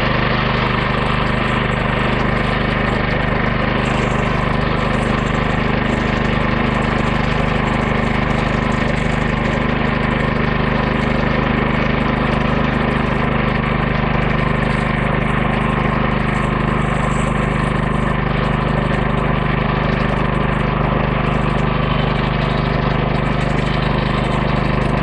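The homemade bandsaw sawmill's 14 hp 420cc single-cylinder engine running steadily at a constant speed, driving the band blade through a log during a cut.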